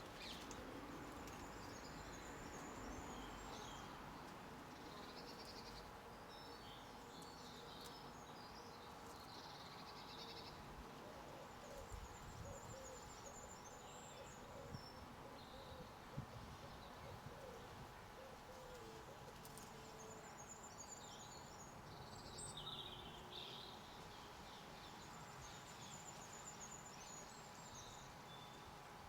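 Garden birdsong, faint: short high chirping and twittering phrases from small songbirds come every few seconds, with a low, soft cooing call partway through.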